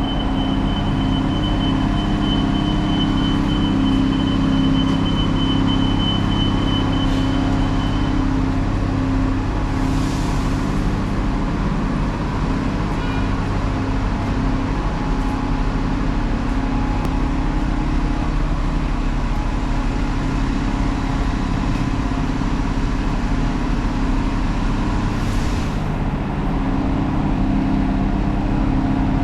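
Steady low hum of a running road vehicle, with two brief hisses, one about a third of the way in and one near the end.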